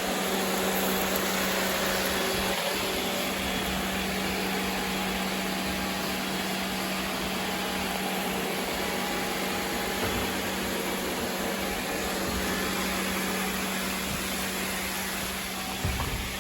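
Robot vacuum running: a steady whirr of suction and brushes with a low hum, which drops away shortly before the end with a brief thump.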